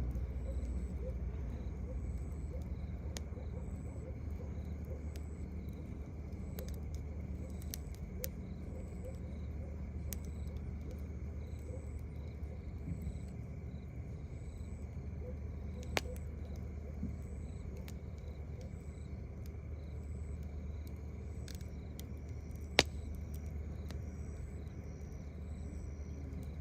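Crickets chirping in an even repeating rhythm over a steady low rumble, with scattered light crackles from a campfire and two sharp pops, the louder one late on.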